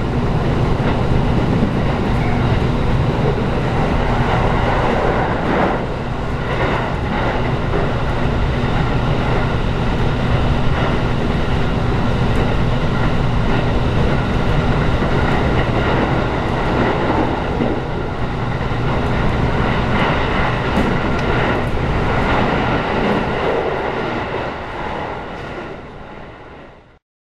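Running noise heard inside a JR Kyushu 811 series electric train carriage at speed: a steady rumble of wheels on rail with a constant hum and a few knocks from the track. It fades out near the end.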